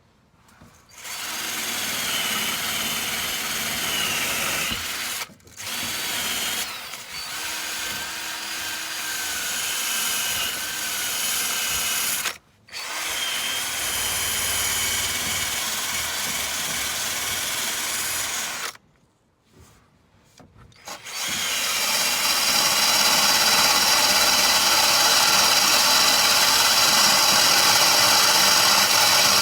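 Cordless drill spinning a wire brush against the car's steel underbody, scrubbing off surface rust. It runs in four spells with short stops between, and the last spell, from about two-thirds in, is the loudest.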